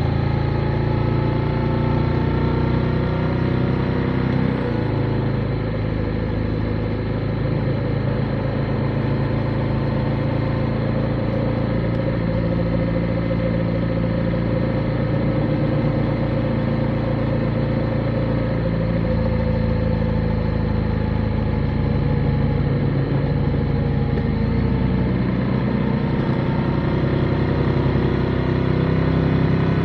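Motorcycle engine running under way, its note stepping and gliding up and down several times as the bike changes speed, over a steady rush of wind and road noise.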